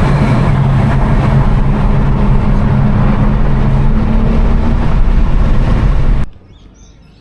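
A car engine and exhaust running loud and steady, with a constant low drone over rushing road and wind noise, that cuts off abruptly about six seconds in.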